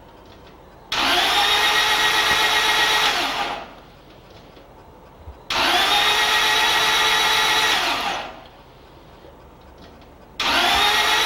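Starter motor spinning a freshly installed Honda ZC engine with its spark plugs out, cranking without firing to build oil pressure: a steady whine in short bursts of about two and a half seconds, each winding down in pitch at its end, the third starting near the end.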